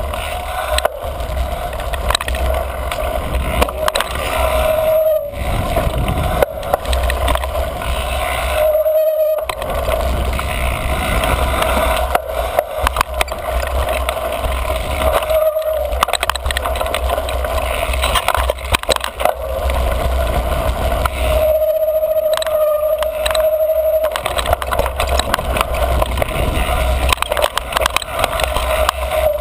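Mountain bike ridden fast over dirt singletrack: wind rumbling on the microphone, tyres rolling and the bike rattling over bumps. The Niner MCR's squealy front brake gives a short steady squeal several times when the rider slows, the longest about three quarters of the way through.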